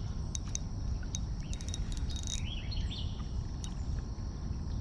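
Birds chirping in short calls here and there over a steady low rumble, with a few scattered sharp ticks.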